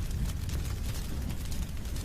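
Wood fire burning: a steady low rumble with frequent small crackles and pops.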